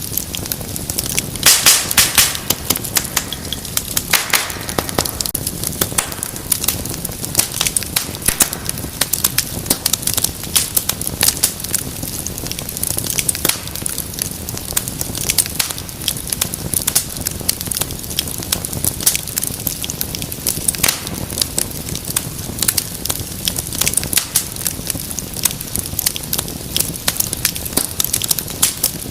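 Wood fire burning in a fireplace, crackling and popping constantly over a soft hiss of flame, with a flurry of louder pops about two seconds in.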